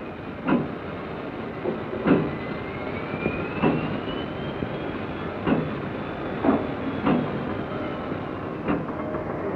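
Freight train rolling along, its wheels knocking sharply over rail joints every second or two. A faint high whine slowly rises and then falls in pitch.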